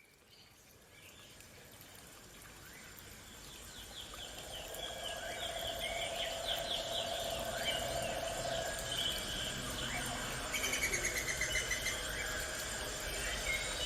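Birds chirping and trilling in rapid repeated calls over faint outdoor ambience, fading in gradually from near silence.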